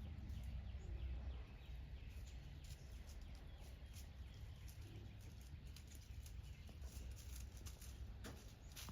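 Quiet outdoor ambience: a steady low rumble with scattered faint clicks and crackles, and a few sharper clicks near the end.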